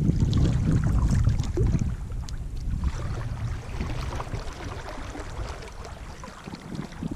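Wind buffeting the microphone for the first couple of seconds, then small splashes and water lapping around a kevlar solo canoe.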